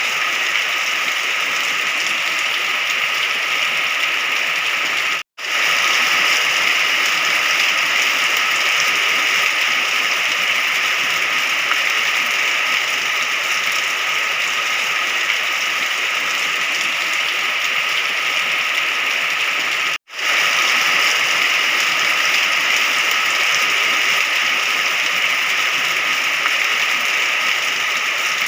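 Steady rain falling, an even hiss of drops, which cuts out to silence for a split second twice.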